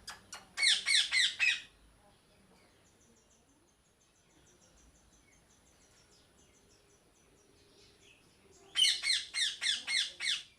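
Parrot squawking in two rapid runs of harsh calls, about six near the start and about eight near the end. Faint, quick, high chirps of a smaller bird sound in the quiet stretch between.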